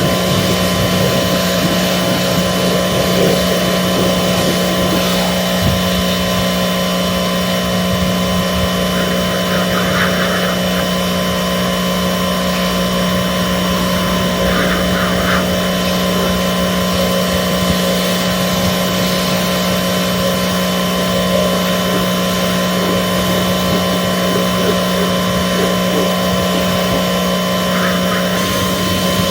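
A motor-driven machine running steadily at a constant speed, with a continuous even whine and rush of air.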